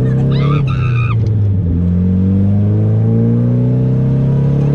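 Nissan 240SX drift car's engine accelerating hard, its pitch climbing, dipping at a gear change about a second and a half in, then climbing again. A brief high-pitched squeal sounds over it near the start.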